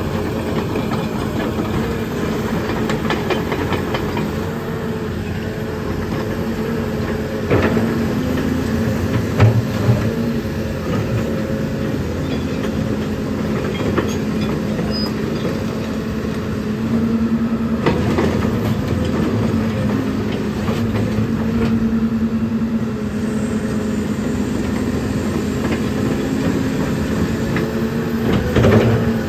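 Volvo EC210 excavator running, a steady engine drone with short metallic clanks now and then, the loudest about nine and a half seconds in and just before the end.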